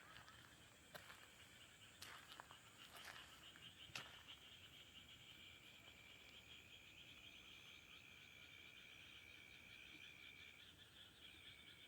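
Faint night chorus of frogs and insects in rice paddies: a fast, even pulsing with a steady high trill joining about halfway through. A few soft knocks in the first four seconds.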